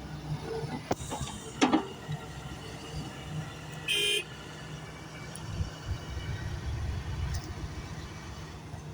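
A few sharp knocks about one to two seconds in, then a single short horn toot about four seconds in, over a low rumble.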